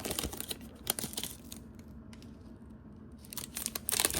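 A foil Pokémon booster pack wrapper being torn open and crinkled. There are crinkling bursts at the start and again near the end, with a quieter stretch in between.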